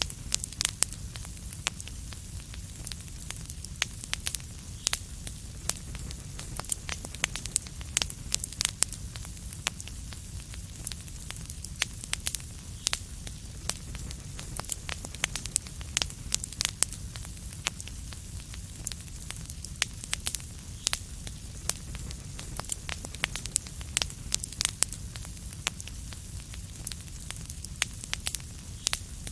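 Wood fire crackling in a fireplace: frequent sharp, irregular pops and snaps over a steady low rumble and soft hiss.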